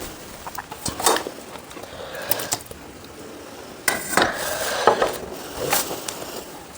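Dishes and cutlery clinking and scraping during a meal: a handful of separate knocks and clinks, the loudest about four to five seconds in.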